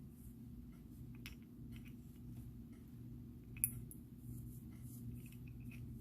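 Small clicks and rustles of beads being handled on elastic cord, with one sharper click about three and a half seconds in, over a steady low hum.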